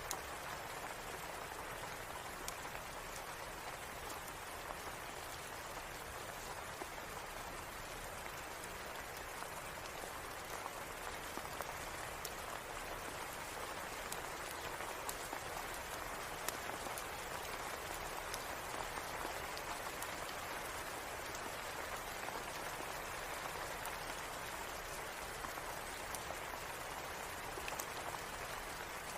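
Steady rain falling on a surface, an even hiss with scattered faint ticks.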